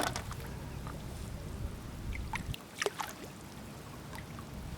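Shallow seawater trickling faintly over a tidal flat, with a few small clicks and light splashes and a steady low rumble underneath.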